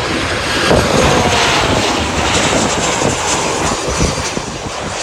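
Southwest Airlines Boeing 737 jet airliner passing close by on its landing approach: a loud rush of engine noise with a falling whine in the first couple of seconds, easing off toward the end.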